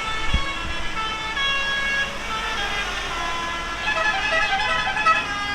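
Several vehicle horns sounding at different pitches, overlapping and starting and stopping in turn, over a low engine rumble, with a short low thump near the start.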